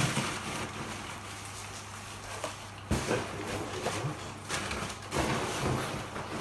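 Plastic wrapping crinkling and rustling as it is pulled off potted orchids, in several short bursts: near the start, about three seconds in, and again around five seconds in. A steady low hum runs underneath.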